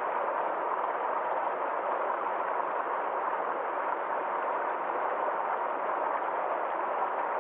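Stream water flowing and splashing over a small waterfall: a steady, even rush with no breaks.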